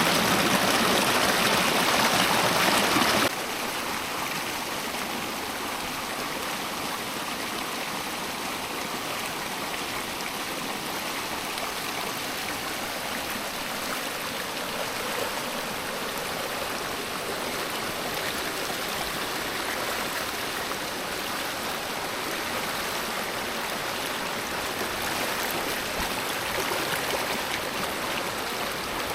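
Stream water flowing steadily. It is louder and fuller for the first three seconds, then drops suddenly to a softer, even flow.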